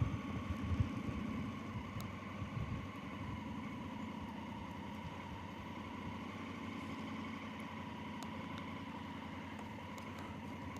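Motorcycle engine running steadily, slightly uneven for the first couple of seconds and then settling into an even, idle-like note.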